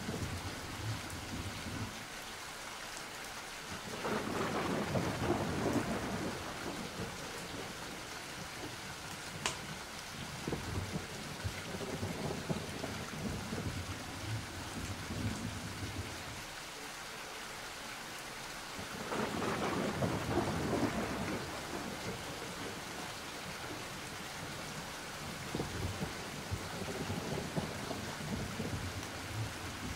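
Steady rain with rolling thunder. Two louder rolls of thunder come about four seconds in and again past the middle, with fainter rumbles between.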